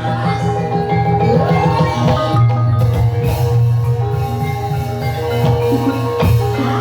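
Gamelan music accompanying ebeg, with mallet-struck keyed instruments ringing over a steady low drone. A short rising pitch glide comes through about a second in.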